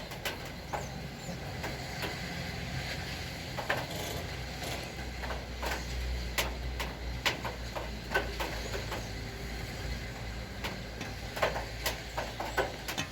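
Rain falling steadily, with many scattered drips and taps. A low rumble swells in the middle and fades.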